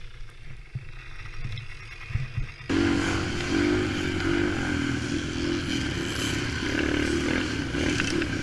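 Motorcycle engine running: a muffled low rumble with a couple of thumps, then, about a third of the way in, a sudden switch to a louder, clearer engine note with road and wind noise.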